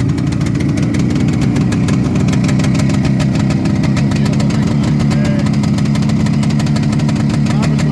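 Small motorcycle engine idling steadily and evenly, running nicely.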